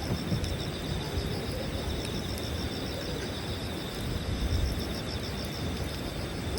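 Insects chirping in a steady, rapid pulsing rhythm, over a low rumble, with the odd faint crackle of a campfire.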